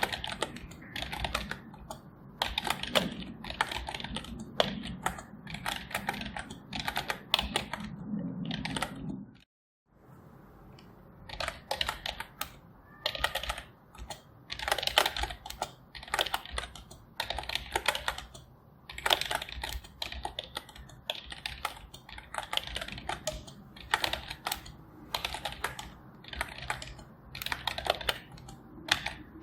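Computer keyboard being typed on: quick runs of key clicks, with a brief break in the sound about a third of the way in.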